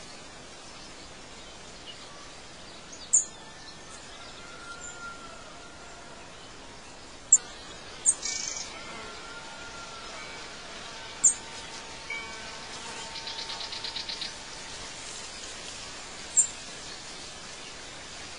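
Birds chirping over a steady outdoor hiss: short, high chirps every few seconds, and a fast trill about thirteen seconds in.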